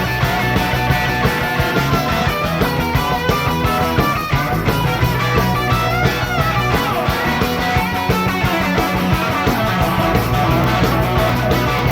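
Instrumental break of a live rock and roll song played by a four-piece band of two electric guitars, bass guitar and drums, on a fast, steady beat.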